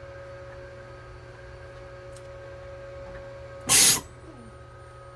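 Steady electrical hum, broken about two-thirds of the way in by one short, loud burst of hissing noise lasting about a third of a second.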